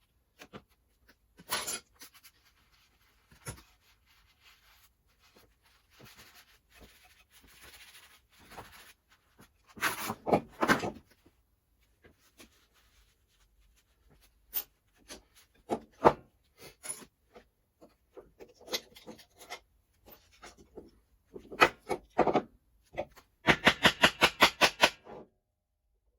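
Hand tools at work on metal car parts: scattered knocks, clicks and scraping, with a louder cluster about ten seconds in and a quick even run of about a dozen strokes near the end.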